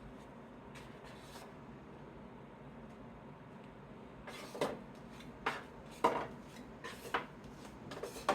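Trading cards being handled and set down on a table: a faint rustle early on, then about six sharp taps, a second or less apart, in the second half.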